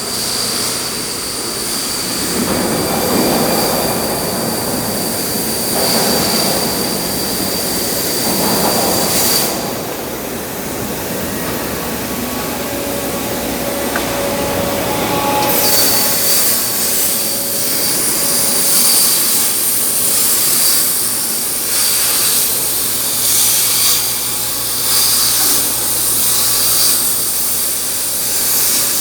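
Automatic CNC steel-cutting machine cutting metal: a loud, steady hiss with a high whine running through it, the sound shifting about ten and sixteen seconds in.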